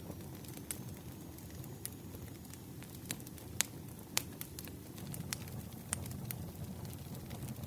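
Wood fire crackling, with irregular sharp pops over a low steady rumble; the loudest pops come about three and a half and four seconds in.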